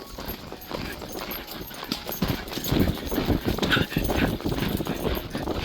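Horse hooves clip-clopping along a trail, an irregular run of hoof falls that gets louder about two seconds in.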